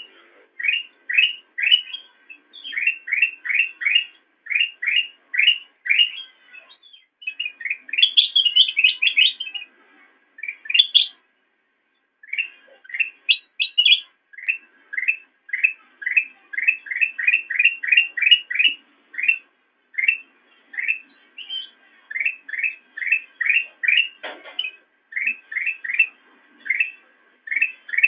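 Kutilang emas, a bulbul, singing: a steady run of short, quick whistled notes, two to three a second, broken about eight seconds in by a faster, higher twittering burst.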